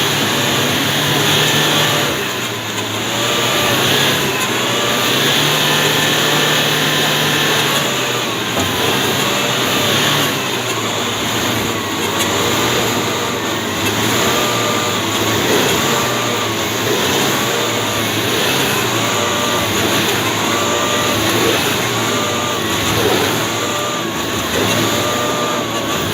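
Toyota Hilux pickup's engine running under load and revving, with a tone that swells and falls back about once a second.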